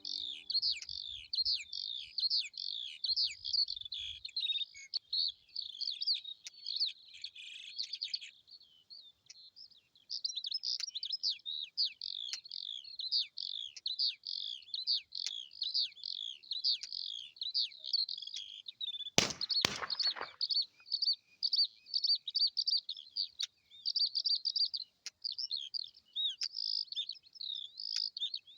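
Small birds chirping and twittering rapidly, one short call after another, thinning out for a moment about nine seconds in. A brief loud bump cuts across the birdsong about nineteen seconds in.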